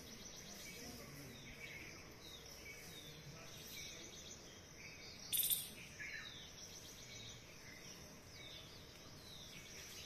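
Birds calling in the trees: short, high, falling calls repeated roughly once a second over a faint outdoor hush. About five seconds in there is one brief, loud hissing noise.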